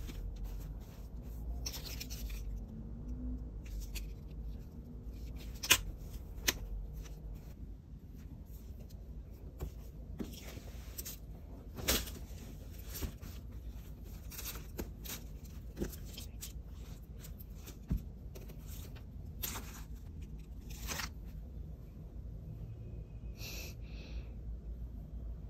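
Scattered light clicks, taps and rustling over a steady low hum, with the sharpest click about six seconds in.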